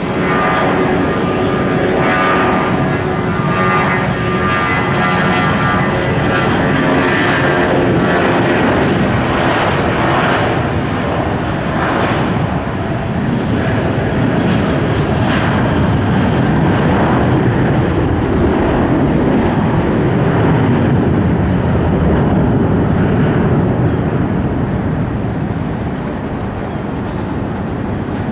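Jet airliner's engines at takeoff power on the runway: a whining tone over a loud roar for the first several seconds, then a steady roar that eases a little near the end.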